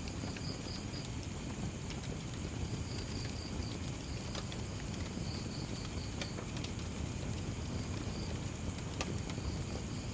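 Wood fire burning with a steady low rumble and scattered sharp crackling pops, while a cricket chirps in short pulsed trills several times.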